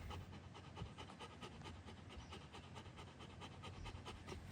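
Chocolate Labrador panting, a faint, fast and even rhythm of quick breaths.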